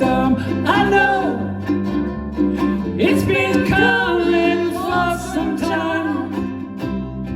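Strummed ukuleles playing a steady rock-ballad accompaniment with voices singing the verse of a song.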